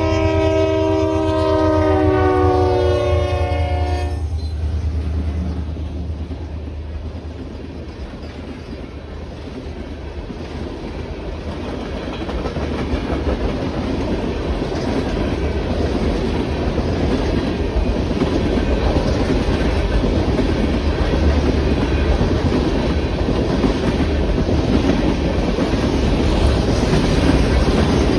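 Locomotive horn of an approaching freight train sounding one long chord that cuts off about four seconds in, then the train of ethanol tank cars running through the crossing, wheels on the rails making a steady loud rush that dips briefly and builds again as the cars go by.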